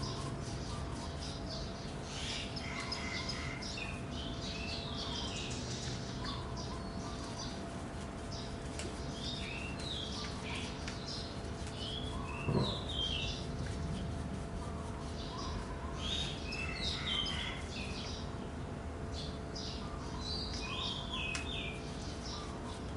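Small birds chirping and calling on and off, over a faint steady hum, with a single brief thump about halfway through.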